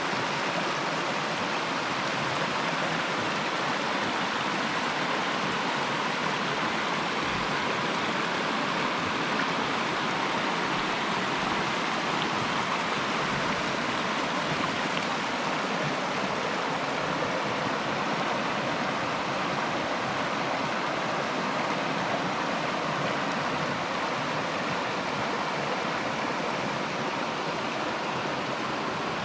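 Mountain river rushing over rocks in a steady, unbroken rush of water.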